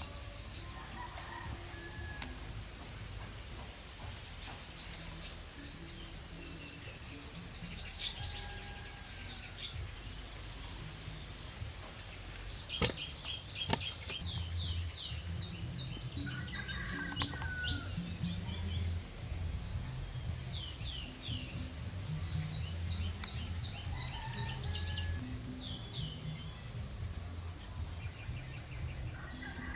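Birds chirping in many short, rapidly repeated calls over a low background rumble, with two sharp knocks a little before halfway through.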